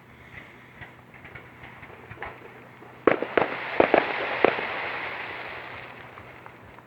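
Fireworks: faint scattered pops, then about three seconds in a volley of several loud bangs with a crackling rush that fades over the next couple of seconds.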